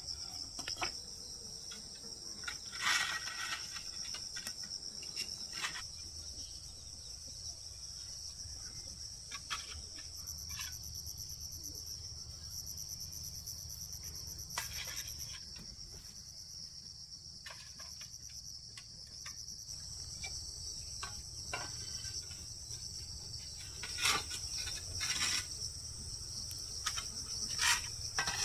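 Steady high-pitched chirring of insects, with scattered short knocks and taps over it, the loudest a few seconds in and in a cluster near the end.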